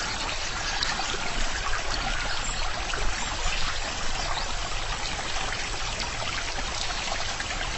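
Stream water running and trickling steadily, a continuous even rush.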